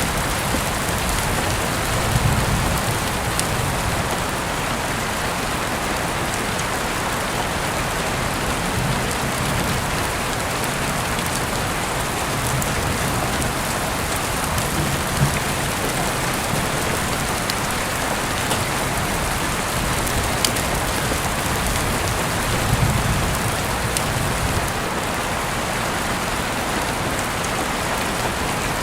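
Heavy rain falling steadily, a dense even hiss with scattered sharper drop ticks. Brief low swells rise under it about two seconds in, around the middle, and a few seconds before the end.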